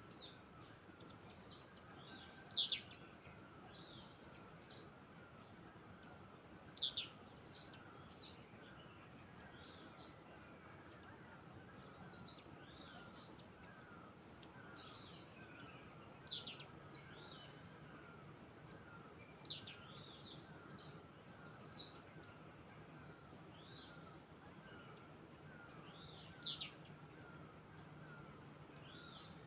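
Birdsong: short, high, downward-sweeping chirps about once a second. Under them runs a fainter, regular string of lower notes and a soft steady hiss.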